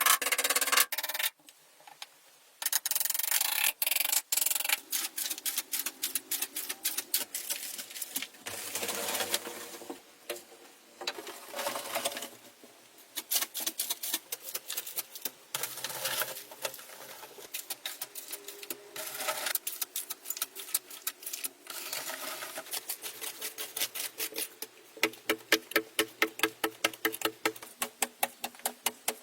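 Hand-tool work on building materials: stretches of scraping or rasping broken up by sharp taps and clicks, with a fast, even run of clicks near the end.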